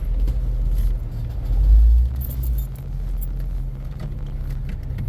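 Off-road vehicle engine running at low speed, a steady low rumble that swells briefly about two seconds in.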